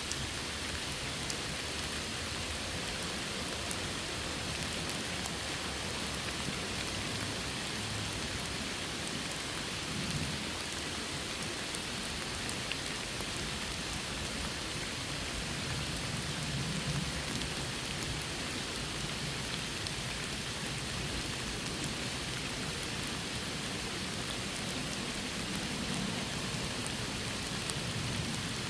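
Steady rain falling, a constant hiss of drops. Soft low rumbles swell a few times.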